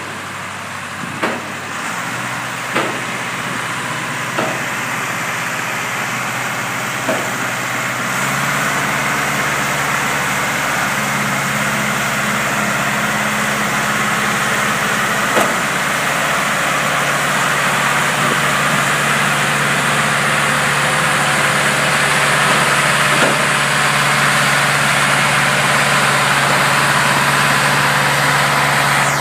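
Boat gantry's engine running steadily, stepping up in speed about two seconds in and again around eight seconds as it works the lift. A few sharp clicks sound over it.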